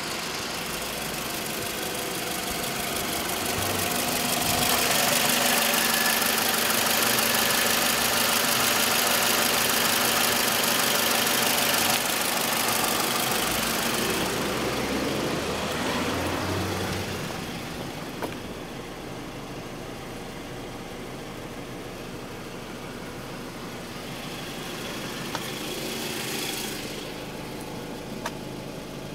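Toyota RAV4's 2.0-litre engine idling steadily, louder for several seconds in the first half, then fainter. A few faint clicks near the end.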